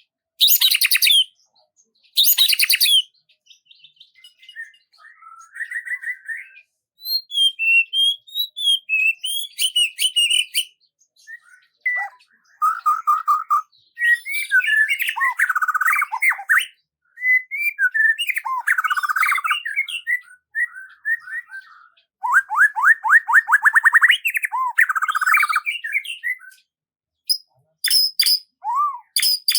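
Songbird song: a string of varied phrases, with quick chirps, whistled notes and fast trills, broken by short pauses.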